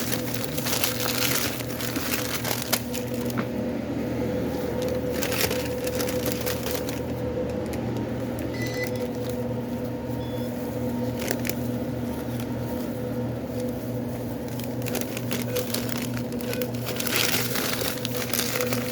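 Steady electrical hum with on-and-off crinkling and crackling from food and wrappers being handled on a sandwich counter; the crackling is busiest near the start and again near the end.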